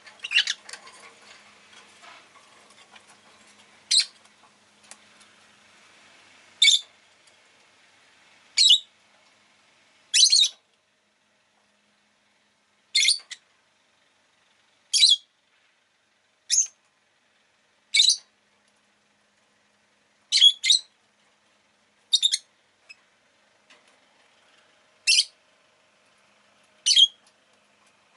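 Rosy-faced lovebird giving short, sharp, high-pitched calls, one roughly every two seconds, about thirteen in all.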